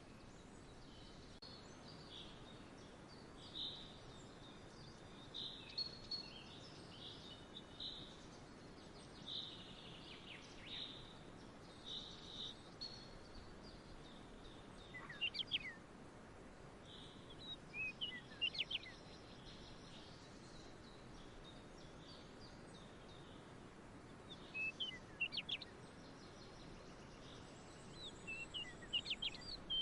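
Birds chirping: short high calls, then clusters of quick downward-sweeping notes every few seconds, over a faint steady outdoor background hiss.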